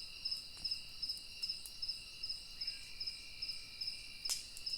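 Night chorus of crickets chirping steadily in quick, even pulses, with one sharp click near the end.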